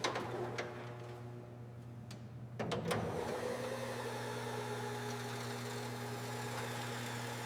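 A machine or motor running steadily with a low, even hum, and a few sharp clicks or knocks over it near the start and about three seconds in.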